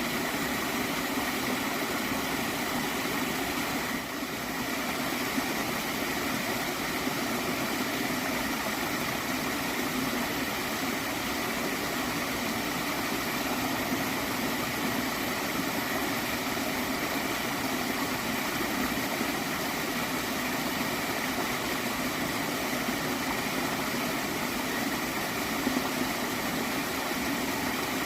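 Water of a small stream flowing steadily, an even gurgling rush.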